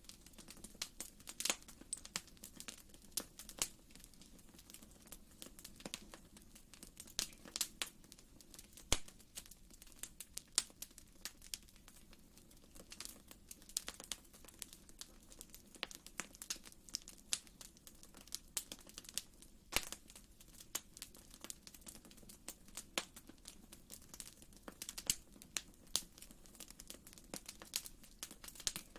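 Wood fire crackling in a fireplace: a steady low hiss of flames with irregular sharp pops and snaps of varying loudness, a few every second.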